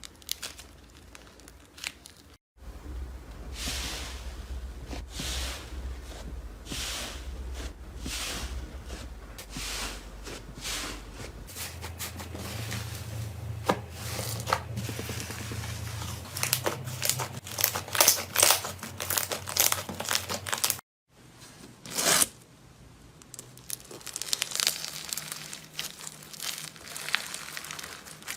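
Slime being squeezed, stretched and pulled apart, with crackling and sharp pops. The pops are loudest about two-thirds of the way through. The sound cuts out briefly twice, as one clip ends and the next begins.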